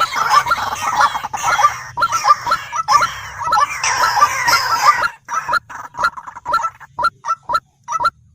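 White-breasted waterhen (dahuk) calling: a dense run of overlapping harsh, repeated calls that thins after about five seconds to separate short calls about three a second.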